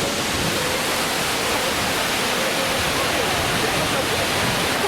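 Waterfall rushing: a steady, loud wash of falling water, with faint voices mixed in under it.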